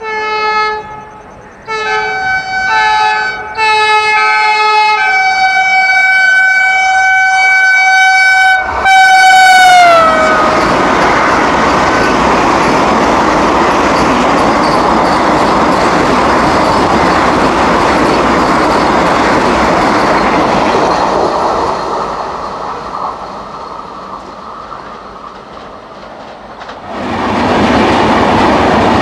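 Mysuru–Chennai Vande Bharat Express sounding its multi-tone horn: several short blasts, then one long blast whose pitch drops as the train passes at speed. The loud rush and rumble of the passing train follows and fades away. Near the end comes the sudden loud rush of the Chennai–Bengaluru Shatabdi Express passing close by.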